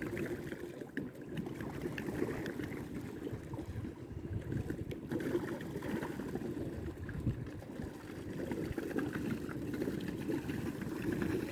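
Water churning and splashing steadily around a small park boat as it is driven along.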